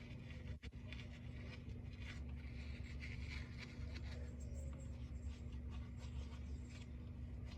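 Scratchy rubbing and scraping sounds from household cleaning, over a steady low hum.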